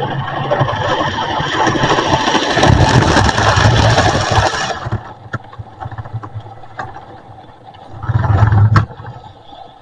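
Model railway train running along the track, passing loudly for about the first five seconds before dropping away suddenly. Then come scattered clicks of the wheels on the rails and a brief loud rumble near the end.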